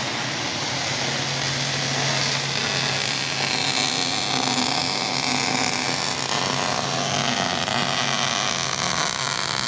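A power tool working metal runs steadily and loudly, with a constant low hum beneath the noise.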